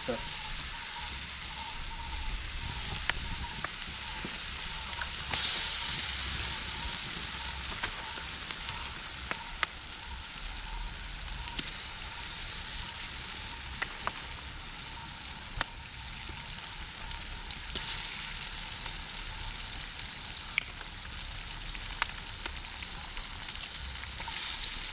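Vegetables and egg sizzling in hot oil in an aluminium wok over a wood fire: a steady hiss, with sharp pops every second or two.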